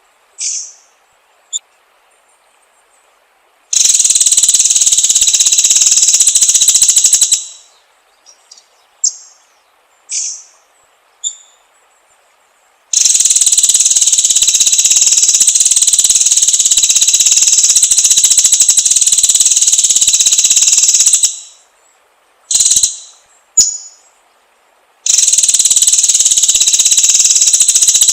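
Short, sharp whistled notes of a white-rumped shama, one sweeping steeply down, alternate with three long, loud, steady high-pitched buzzing trills. The buzzes last several seconds each, the longest about eight seconds.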